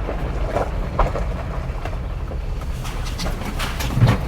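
Ford Bronco driving over a rough dirt road: a steady low rumble with scattered knocks and rattles, a louder knock about a second in and another near the end.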